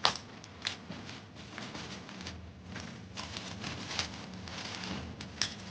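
A series of irregular light clicks and knocks, the sharpest one right at the start, over a low steady background hum.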